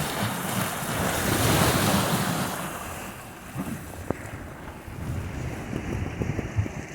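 Black Sea surf: a wave washes up the shore, loudest about two seconds in and fading away after about three seconds, with wind buffeting the microphone.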